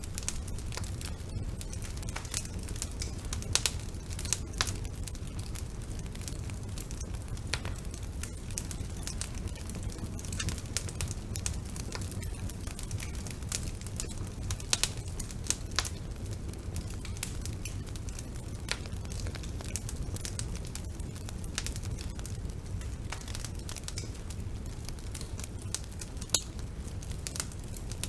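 Wood fire burning in a fireplace, crackling: irregular sharp pops and snaps, a few louder than the rest, over a steady low rumble of the flames.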